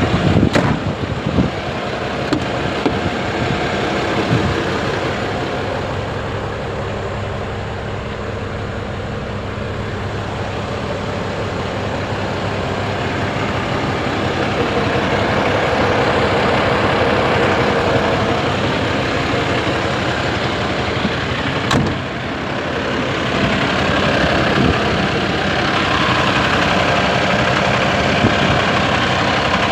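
The diesel engine of a Renault Midlum 220 dCi truck running steadily. Its sound grows louder and fuller in the second half, with a sharp click about 22 seconds in.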